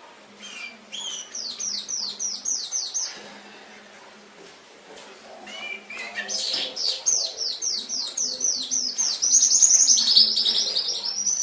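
Domestic canary singing: a quick run of repeated falling high notes for about two and a half seconds, a pause, then a longer song from about five seconds in that swells into a fast, loud trill near the end.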